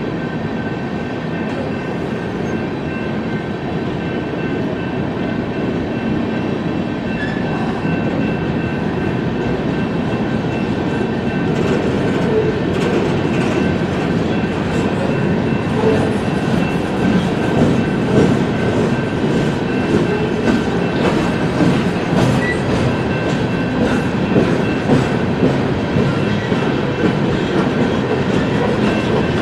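BNSF coal train's hopper cars rolling past, a continuous rumble with the wheels clicking over rail joints. It grows louder and the clicking becomes more distinct about halfway through, with a faint steady high tone above it.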